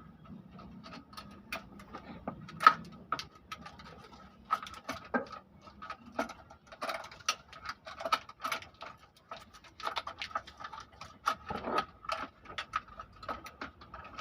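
Hand tools clicking and tapping on metal engine parts during an engine teardown: irregular sharp metallic clicks, several a second, with a slight ringing, and one louder knock a little under three seconds in.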